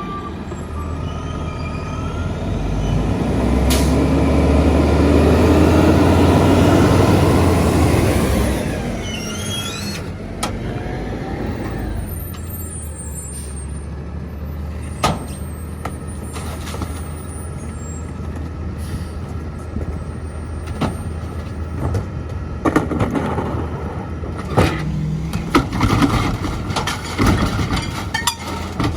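Mack MRU rear-load garbage truck's diesel engine revving up for several seconds, then dropping back to idle about eight seconds in with a hiss of air. It then idles steadily, with scattered clanks and knocks near the end.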